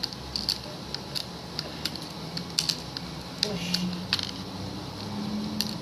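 Irregular light clicks and taps of small hard skateboard parts (trucks and wheels) being handled, over a faint steady low hum.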